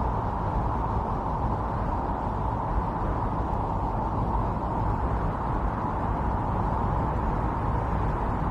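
Steady howl of strong winter storm wind, with a low rumble and a whooshing band that swells and eases slightly.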